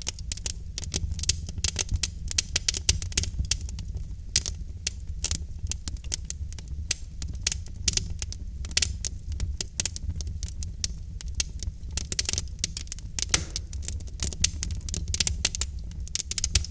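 Burning logs in a fireplace crackling and popping, with quick irregular snaps over a steady low rumble of the fire.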